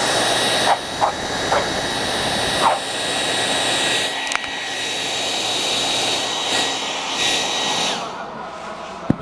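Handheld hair dryer blowing steadily with a faint whine over its rush of air. It dies down about eight seconds in.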